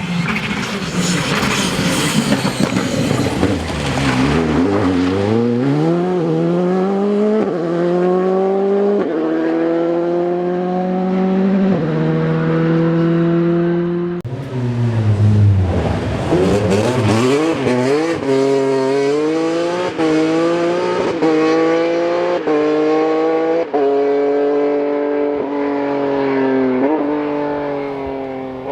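Rally car engine slowing into a corner, then accelerating hard up through the gears, its pitch climbing and dropping back at each upshift. This happens twice, the second time starting about halfway through.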